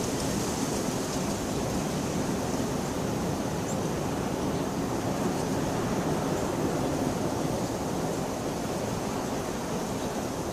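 Steady rain falling, an even continuous hiss with no distinct thunderclap standing out.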